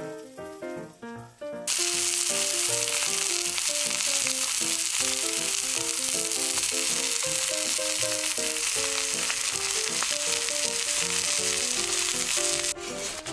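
Food sizzling loudly in a hot pan, a steady frying hiss that starts abruptly about two seconds in and cuts off sharply near the end, over light background music.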